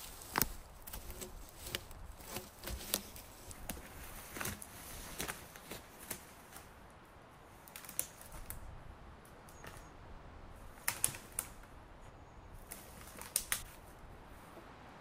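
Irregular sharp clicks and light knocks at an uneven pace, with a faint steady background between them.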